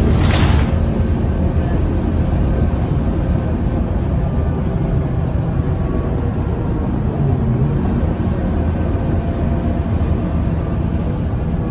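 Scania K230UB city bus heard on board: the engine and road noise run as a steady drone with faint steady tones. A short hiss comes right at the start.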